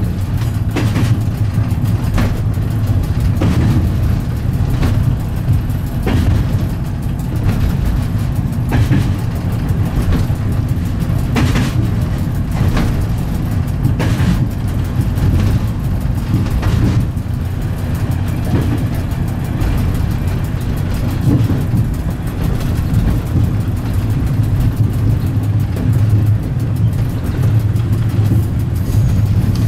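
Diesel train running steadily, heard from inside the driver's cab: a constant low engine drone, with the wheels clicking over rail joints now and then.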